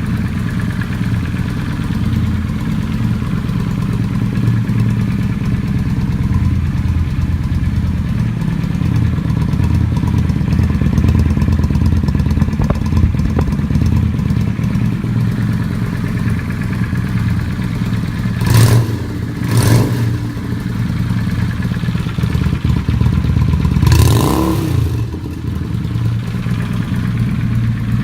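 Honda VRX400's V-twin idling through its stock exhaust with the baffles removed. About two-thirds of the way through come two short throttle blips about a second apart, then a longer rev a few seconds later.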